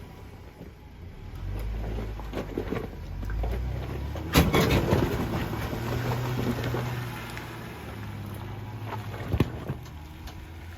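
Off-road vehicle's engine running at low revs on a trail, with a sharp loud knock about four seconds in and a smaller one near the end.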